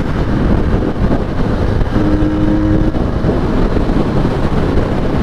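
Benelli 302S parallel-twin engine running under way on its stock exhaust, a loud, dense rumble, with a clearer held engine note coming through for about a second near the middle.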